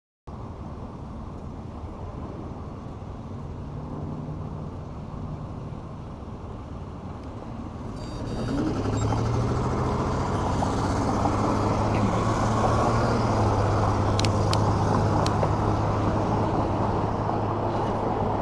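Steady road and traffic noise with a wind-like rumble. It gets louder about eight seconds in, when a steady low hum joins it, and a few sharp clicks come near the end.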